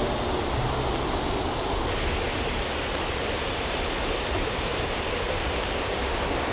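Steady rushing of a flowing river, with a few faint clicks over it.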